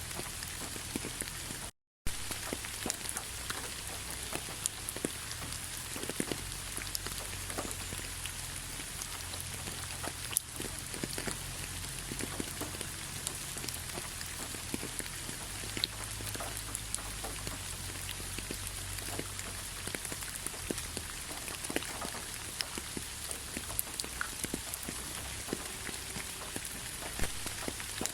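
Light rain falling: a steady hiss with scattered drops ticking and pattering on a surface. The sound drops out completely for a moment about two seconds in.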